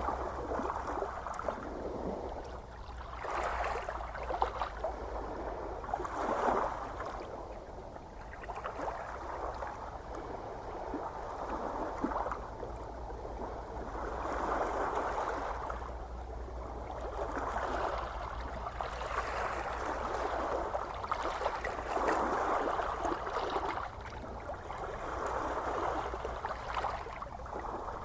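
Small ocean waves washing in and breaking gently, one soft swell of surf every two to three seconds, over a steady low rumble.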